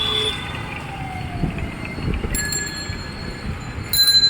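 Electric metro train running, with thin high whines from its motors over steady rumble; one whine falls in pitch about a second in.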